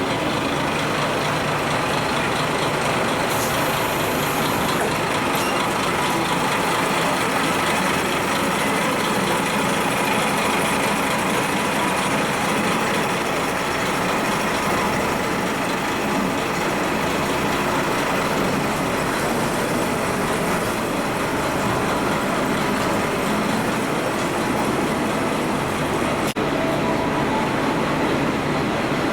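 Diesel railcar of the Kashima Rinkai Railway with its engine running steadily, a continuous engine and rail noise with a faint steady whine.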